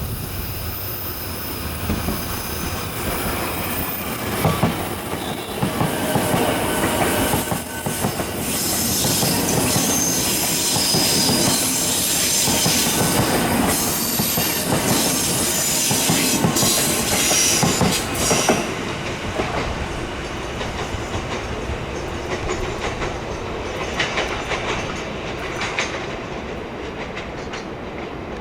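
Taiwan Railway TEMU2000 Puyuma tilting electric express train passing at speed, its wheels clattering over the rails with thin high wheel squeal. The sound builds to its loudest in the middle, then the hiss drops away about two-thirds through, leaving a duller, lower rumble.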